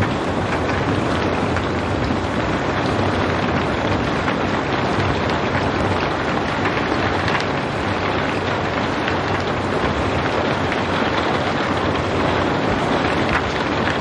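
Steady rain: a constant, even hiss with faint scattered drop ticks, no thunder.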